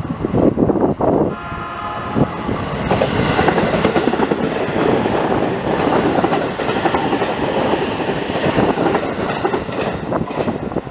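A passenger train sounds its horn, a steady pitched blast of about a second and a half starting a little over a second in, then runs past with loud rumble and wheels clattering over the rail joints.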